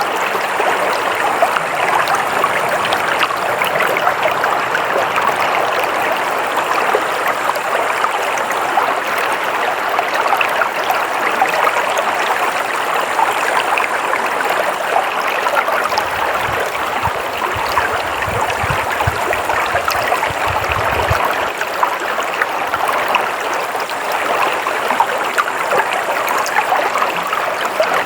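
Water flowing steadily in a stream, a continuous rushing, splashing babble, with a faint low rumble for a few seconds about two-thirds of the way through.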